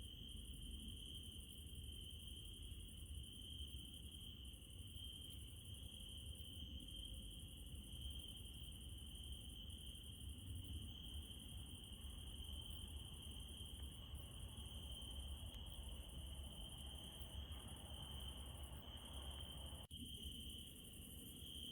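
Crickets trilling in a steady, unbroken night chorus, with a faint low rumble underneath.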